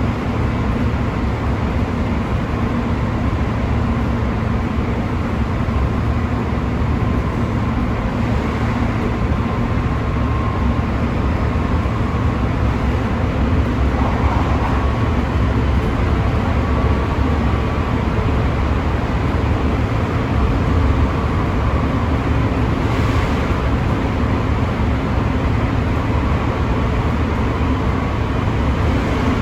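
Interior running noise of a Chiba New Town Railway 9100 series electric train travelling at a steady speed: a continuous rumble of wheels on rail, with faint steady tones above it.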